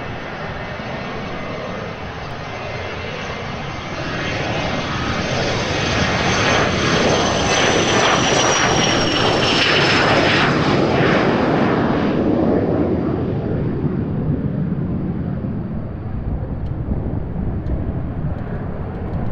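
Business jet passing close by: the engines' rushing noise swells to a peak and then eases off, with a high whine that slides down in pitch as the jet goes past.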